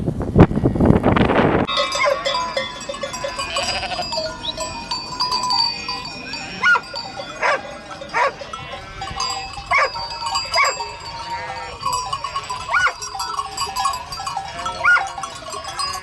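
Farm animals calling. A loud low call ends about a second and a half in. Short bleats then repeat about once a second over steady bell-like ringing.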